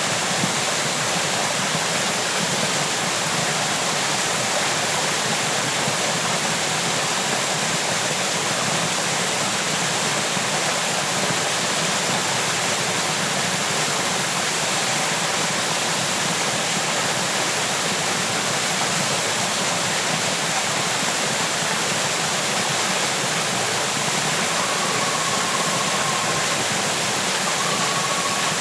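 Waterfall: water falling and rushing in a steady, unbroken wash of noise. A faint thin whistle-like tone comes in briefly twice near the end.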